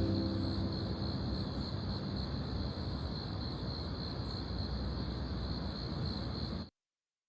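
The last sustained notes of soft background music fade out over the first couple of seconds. A steady outdoor background hiss with a constant high-pitched hum follows, and the sound cuts off abruptly near the end.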